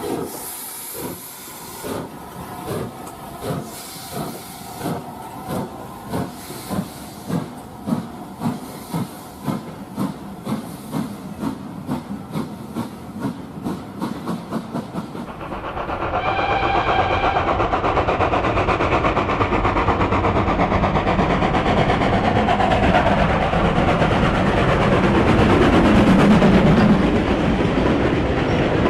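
Steam locomotive chuffing as it pulls away, the exhaust beats quickening steadily. About halfway the sound changes suddenly to a louder, continuous rush of a train running at speed, with a brief whistle-like tone as it begins.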